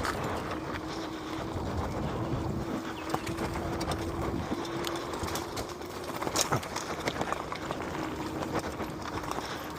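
Electric bike riding over a rough dirt trail: a steady motor whine, fading about six seconds in, over the rumble and rattle of tyres and frame on the ground, with scattered clicks and one sharper click near the middle.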